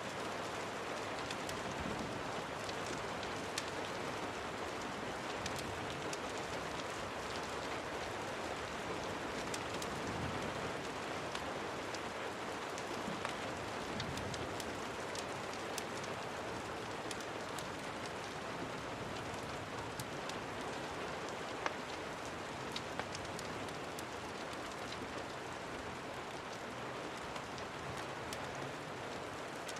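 Steady rain falling on a surface, with scattered sharp ticks of individual drops or crackles throughout.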